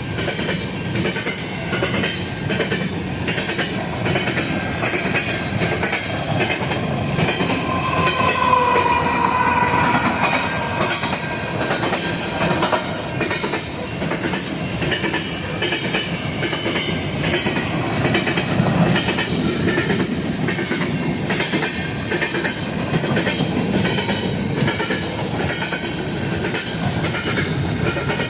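Freight train cars rolling past with a steady clickety-clack over the rail joints. A brief high wheel squeal comes about eight to ten seconds in.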